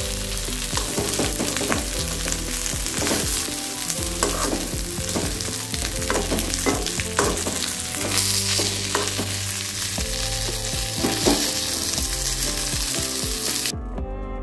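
Fish pieces frying with sliced onion and chilli in oil in a shallow pan, sizzling steadily while a steel spoon stirs and scrapes against the pan in short irregular strokes. The sizzle cuts off abruptly near the end.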